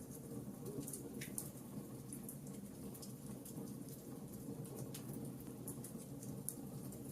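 Wood fire crackling softly: a steady low rumble of burning with scattered small snaps and pops.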